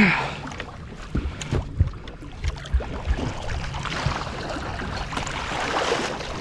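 Wind and water against a small boat at sea, with several dull knocks in the first half and a rush of water splashing near the end.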